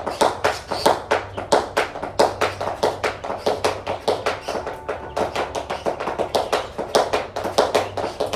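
Rhythmic toe tapping and finger snapping, a quick steady run of sharp taps, about five or six a second.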